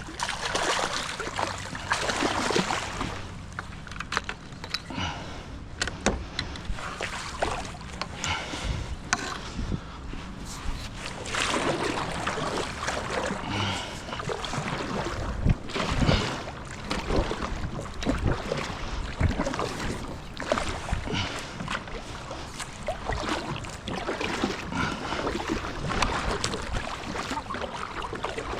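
Water splashing and sloshing around a kayak, with scattered knocks and clicks throughout.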